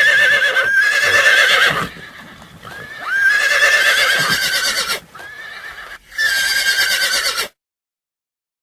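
Horse whinnying: three long, quavering neighs in a row, the sound cutting off to silence near the end.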